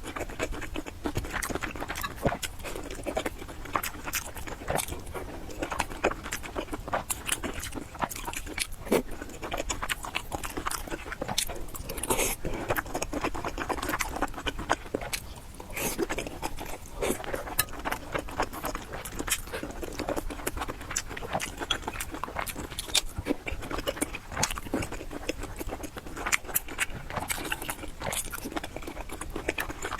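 Close-miked chewing and mouth sounds of a person eating noodles: a steady run of small wet clicks and smacks.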